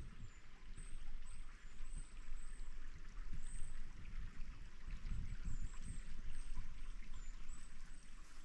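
Stream water running and trickling, with irregular low rumbles underneath and faint, short high-pitched chirps repeating over it.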